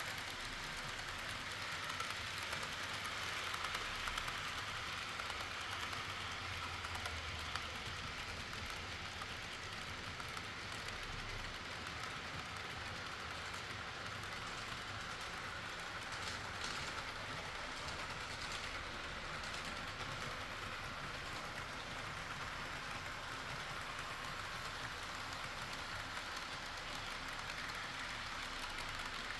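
HO-scale model train running steadily along its track, a continuous whirr of small wheels on the rails and its motor.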